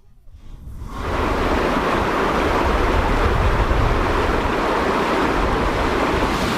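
Steady rush of a fast mountain river, swelling up over the first second and then holding, with a low rumble beneath.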